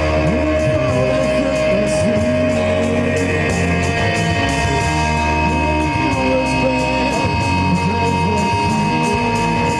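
Live rock band playing: distorted electric guitars holding sustained notes over bass and a steady drum beat, with a singer's voice coming through.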